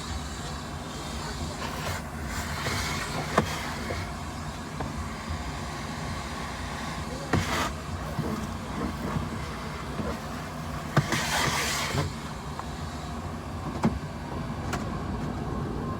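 A car running, with a steady low rumble, a few sharp clicks and two brief rushes of hiss, about seven and eleven seconds in.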